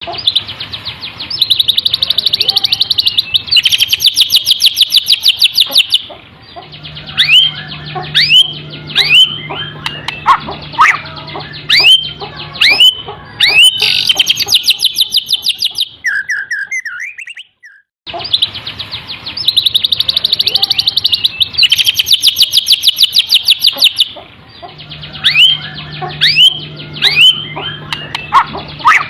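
Caged songbird song billed as miwah 'tembakan' with full canary song: fast buzzy trills and sharp rising whistled notes in quick succession. The song breaks off briefly about two-thirds through, and then the same sequence repeats. A faint low hum sits under parts of it.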